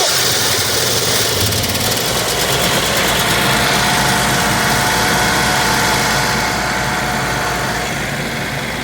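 Generac RV generator engine running steadily just after a cold start, with a low steady hum.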